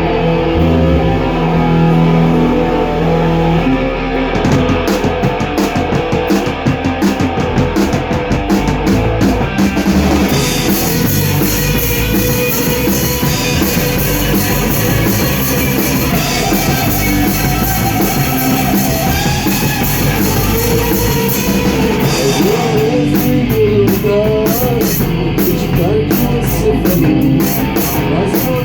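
Rock band playing live: drum kit, electric guitar and bass in an instrumental passage with no vocals. Cymbals wash loudly through the middle of the passage, and bending guitar notes come in near the end.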